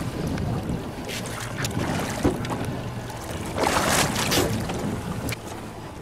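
Boat engine running steadily under wind and water noise, with a louder rush about three and a half seconds in.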